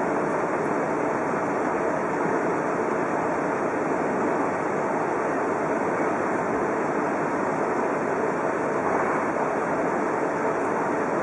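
Steady running noise of an Odakyu Romancecar VSE (50000 series) electric train, an even rumble and hiss of wheels on rails heard from inside the front observation cabin.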